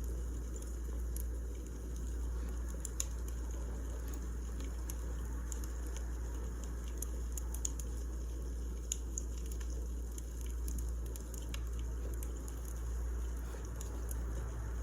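Burning firewood crackling: a steady low rumble with scattered sharp crackles and pops at irregular moments, a few louder ones standing out.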